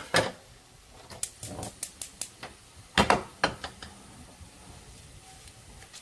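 A run of sharp clicks and clattering knocks as utensils are handled at a charcoal grill, with a louder cluster of knocks about three seconds in. After that only faint crackle remains.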